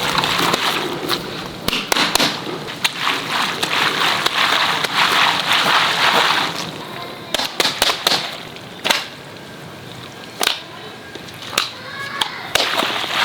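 Water rushing and splashing for about six seconds, then several sharp snaps about a second apart.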